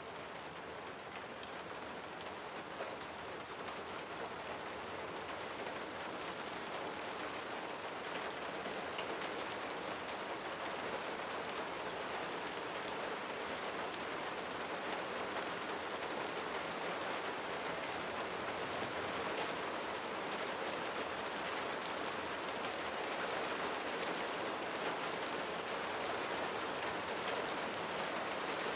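Steady rain falling, a continuous hiss with many small individual drop ticks through it.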